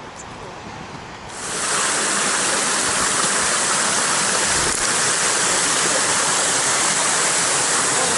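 Rushing whitewater of the Colorado River, a loud steady roar that comes in suddenly about a second in, over a softer hiss of moving water.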